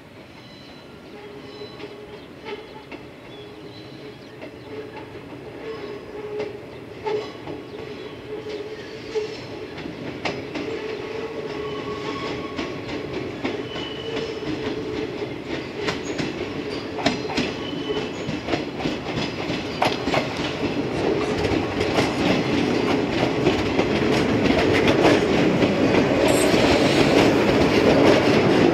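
Yellow electric multiple-unit train approaching and passing close by, growing steadily louder, with its wheels clicking over rail joints over a steady hum.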